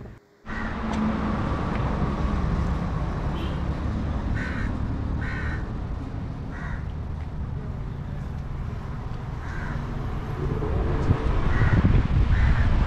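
Birds calling, about half a dozen short harsh calls spaced a second or more apart, over steady low outdoor background noise. The background grows louder near the end.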